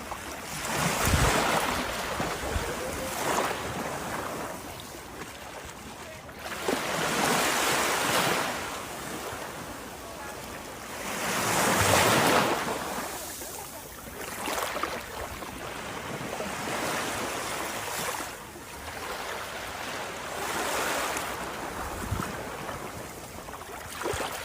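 Sea waves breaking and washing in, swelling and receding every few seconds, with the biggest surges about a second in and near the middle.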